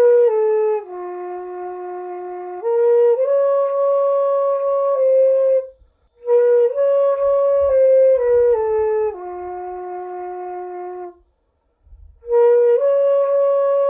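Sanjo daegeum, a Korean bamboo transverse flute, playing a slow melody of long held notes that step up and down. It comes in three phrases with short pauses for breath about six seconds in and again about eleven seconds in.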